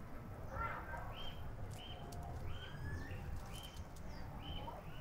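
Bird calls: a short, high note repeated over and over at a steady pace, with a few brief rising chirps, over a steady low rumble.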